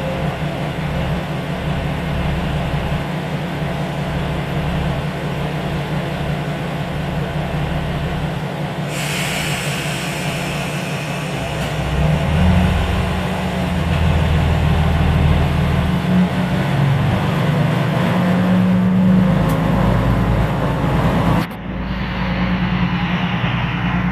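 Train running with a steady low hum. A hiss comes in suddenly about nine seconds in, and the hum grows louder and shifts about twelve seconds in. The sound breaks off abruptly near the end, then carries on.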